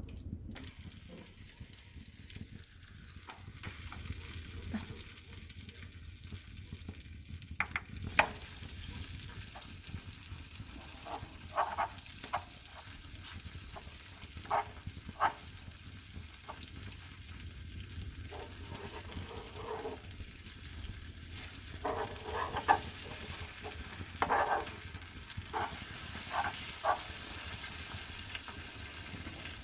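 Cheese melting over a wood fire in a fireplace: a steady sizzling hiss with scattered sharp crackling pops, which come more often in the second half.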